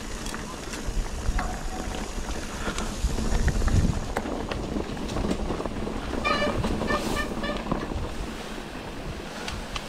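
Wind buffeting the microphone: a steady low rumble with scattered clicks. About six seconds in comes a short run of quick, repeated pitched chirps lasting a second or two.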